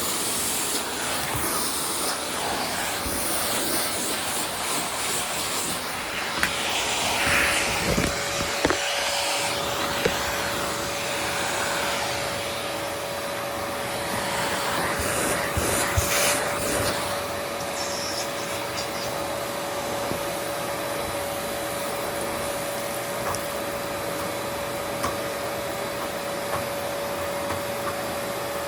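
Vacuum cleaner running steadily, with a steady whine joining about a quarter of the way in and a few short knocks, such as the head bumping against things.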